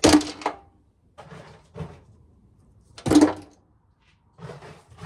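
Ears of corn knocking and clattering against a pail and tub as they are dumped and handled. Two loud hollow knocks come about three seconds apart, with lighter clattering between and after them.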